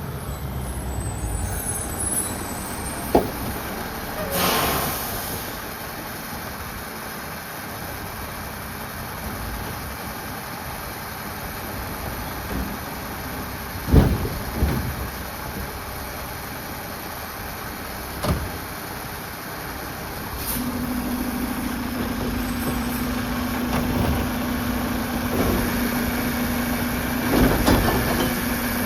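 Mack LR side-loader garbage truck running, with a burst of air hiss about four seconds in and a few sharp metal clanks. About two-thirds of the way through, a steady hum comes in and the truck gets louder.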